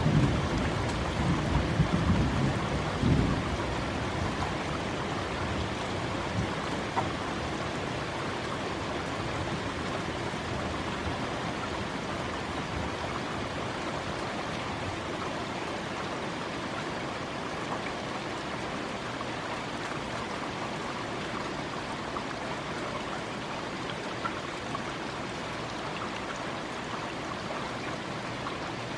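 Thunderstorm: a low thunder rumble dies away about three seconds in, leaving steady rain with a few sharp clicks of drops hitting the microphone.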